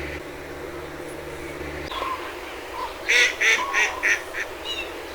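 A duck quacking a run of five quacks about three seconds in, fading toward the end. Under it the sluice's water runs steadily, and other birds give faint high chirps.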